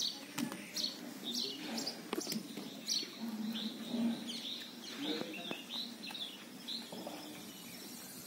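Small birds chirping: a run of short, high, falling chirps repeated throughout, with a few sharp clicks between them.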